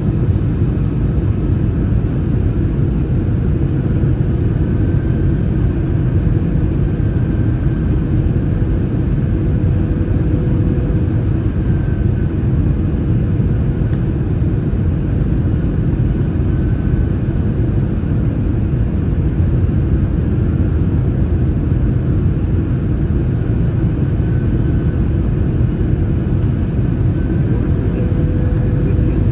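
Steady in-flight cabin roar of an Airbus A319: airflow and CFM56 turbofan engines making a deep, even rumble with a faint steady hum above it.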